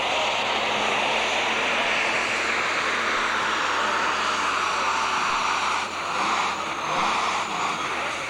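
Super stock pulling tractor's turbocharged engine at full throttle, pulling the weight sled down the track: a loud, steady engine and turbo sound whose level wavers and dips in the last couple of seconds.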